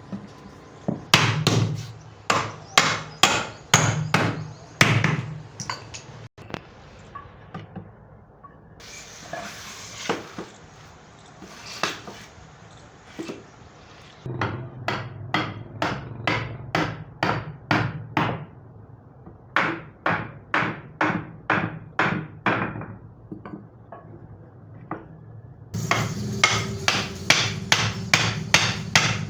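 Hammer blows on wood in several runs of quick, evenly spaced strikes, about two or three a second, with short pauses between the runs.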